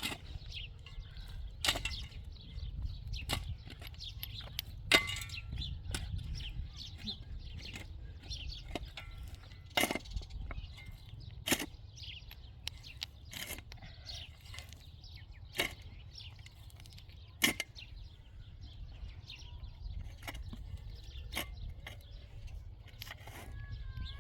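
Irregular sharp clicks and knocks, about a dozen, spaced a second or two apart, over a steady low rumble.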